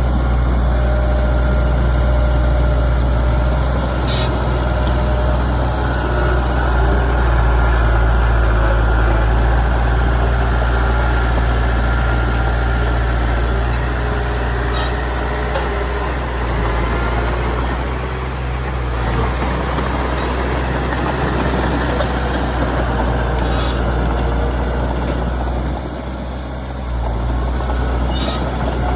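Heavy diesel engine of an earthmoving machine running steadily with a low hum, with a few short clicks or clanks over it.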